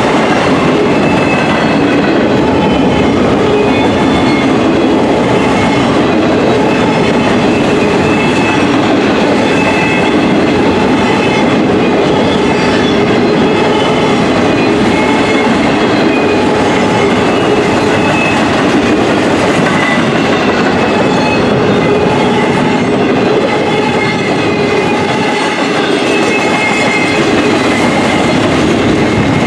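Double-stack container well cars of a freight train rolling past: a loud, steady noise of steel wheels running on the rails, with steady ringing tones above it.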